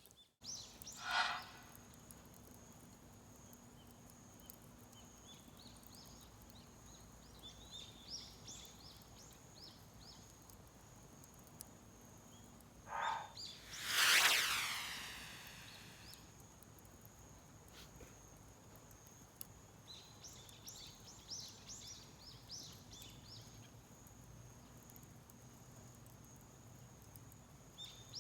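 Outdoor ambience: small birds chirping on and off over a steady high insect drone. About halfway through comes a loud sweeping noise that falls in pitch and fades over about two seconds.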